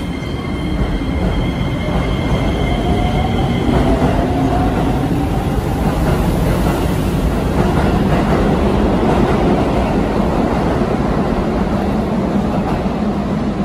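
Keisei 3000-series electric commuter train departing and accelerating along the platform, its wheels and running gear on the rails growing louder. A faint whine from the traction motors rises in pitch a few seconds in.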